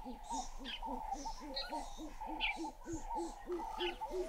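A bird's rapid series of low hooting notes, about four a second, slowly rising in pitch and growing louder, over scattered higher bird chirps and trills.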